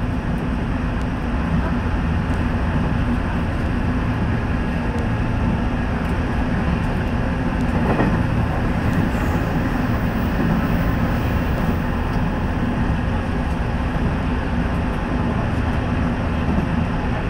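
Nishitetsu electric commuter train running at speed, heard from inside the front car: a steady rumble of wheels on rail with a low hum, speeding up to about 77 km/h.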